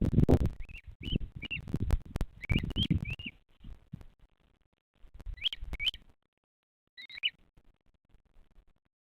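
A bird chirping in short, high, hooked notes that come in twos and threes, about nine in all, with the last one about seven seconds in. Low rumbling noise buffets the microphone under the first few seconds and again just past the middle.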